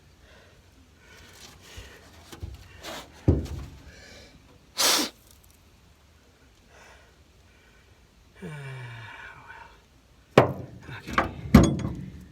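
A few sharp knocks and clatters of hand tools on metal, a short hissing burst about five seconds in, and a brief falling groan or sigh near nine seconds.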